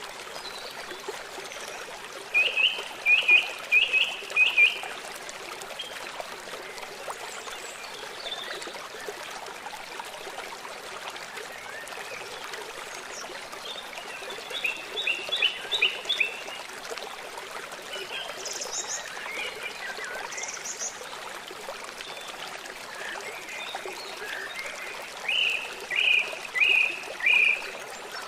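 River water running with a steady rushing hiss, while a bird three times calls a quick series of four or five short, clear notes, each sliding downward, with a few fainter, higher calls in between.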